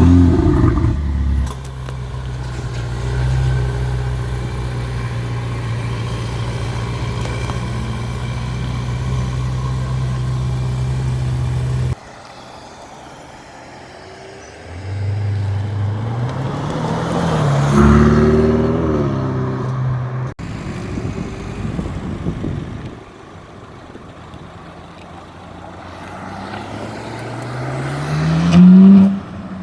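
Ferrari engines: a loud rev at the start that drops back to a steady running note for about twelve seconds. Then, across abrupt cuts, a car accelerating with rising pitch and shifts, and near the end another acceleration climbing to the loudest point.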